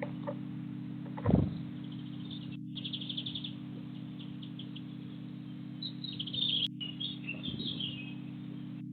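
Small garden birds chirping in short, rapid trills, over a steady low hum. A dull thump about a second in is the loudest sound.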